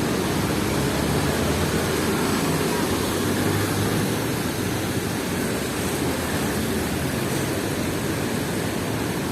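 Steady rushing noise of a wet city street, traffic and rain blended into one even wash, with no single event standing out.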